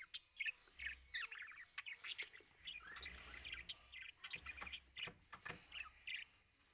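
A group of budgerigars chattering: a dense stream of quick chirps and short squawks, with a few sharp clicks.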